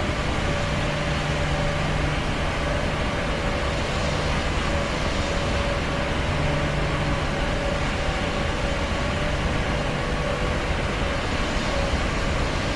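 Steady engine and air roar inside an aeroplane cabin in flight, with a faint constant low hum underneath.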